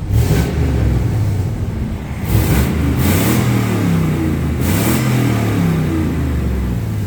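Pickup truck's 5.3-litre V8 revved up and down a few times, its pitch rising and falling, through an exhaust with straight pipes in place of the catalytic converters.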